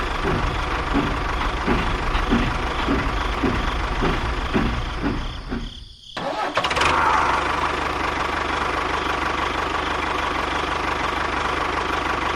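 An engine running, with a regular knock about twice a second for roughly the first six seconds. The sound breaks off briefly, then comes back as a steadier, even run.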